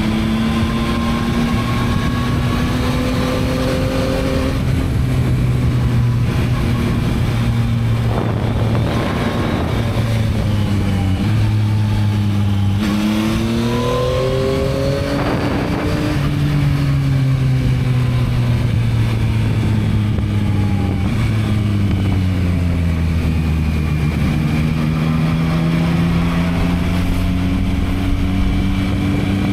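Yamaha MT-09 (2022) 890 cc inline three-cylinder engine on its stock exhaust, riding on the road. The revs climb sharply about halfway through, ease off slowly, then build again near the end.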